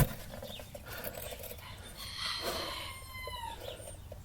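An animal call about a second and a half long, gliding down in pitch, heard about two seconds in.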